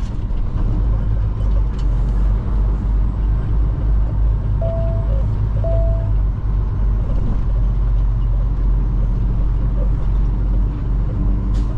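Semi truck's diesel engine running with a steady low rumble. Two short beeps come about five and six seconds in.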